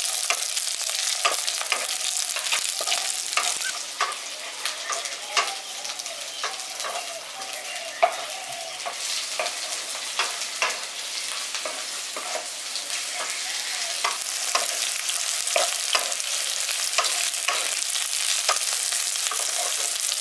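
Sliced onion and capsicum with chopped garlic, ginger and green chilli frying in a little oil in a kadai: a steady sizzle, with frequent sharp clicks and scrapes as they are stirred against the pan.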